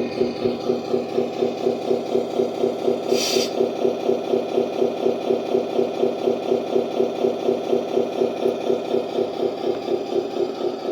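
Servonaut SM3 sound module in a 1:14 RC Scania 770S truck playing a V8 diesel idle through its small speaker: an even, pulsing idle at about four to five beats a second, with no deep bass. A short hiss about three seconds in.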